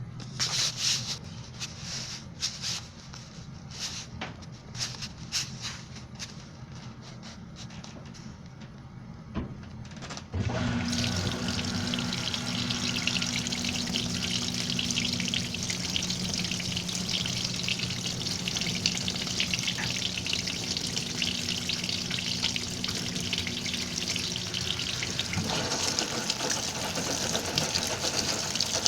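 Washing machine filling with water: irregular splashing and trickling, then about ten seconds in a sudden steady rush of incoming water with a low hum underneath.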